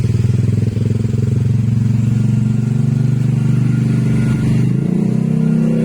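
Motorcycle engine running steadily through a newly fitted aftermarket exhaust, with an even, rapidly pulsing exhaust note.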